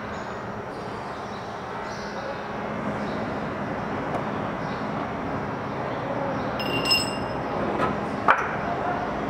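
Steady low rumble of an idling truck engine, with one short metallic ping about seven seconds in and a sharp knock a second later.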